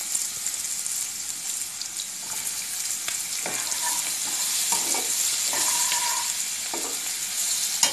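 Chopped onions sizzling in hot oil and spices in a nonstick kadai, a steady hiss. A perforated steel spatula scrapes and knocks against the pan several times as they are stirred.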